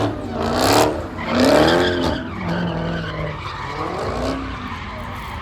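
Car engine revved hard during a burnout, its pitch surging up and falling back twice in the first two seconds and then running on at lower revs, with spinning tyres hissing and squealing.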